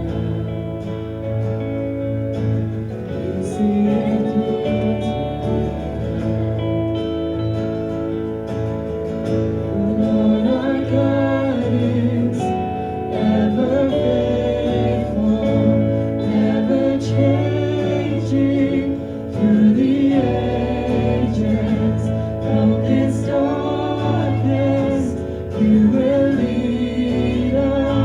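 Contemporary Christian worship song played live on guitar, with a group of voices singing.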